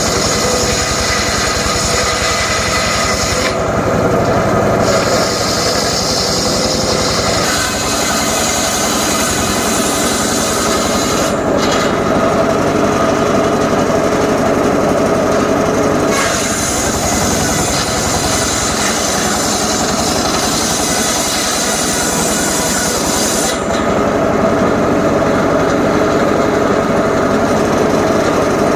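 Homemade circular saw rig running continuously while its blade cuts johar wood; the high hiss of the cut fades and comes back several times as the blade works through the timber.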